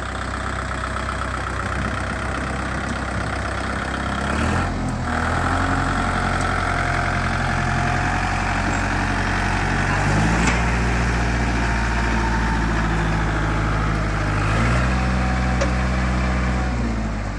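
Kubota tractor's diesel engine running, its speed shifting in steps several times, with the pitch rising about four seconds in and again about ten seconds in, then dropping back shortly before the end.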